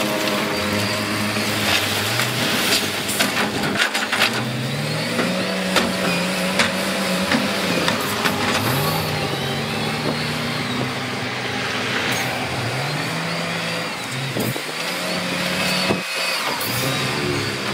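Heavy diesel earthmoving machine's engine revving up and falling back again and again, every two seconds or so, with a few sharp knocks in the first half.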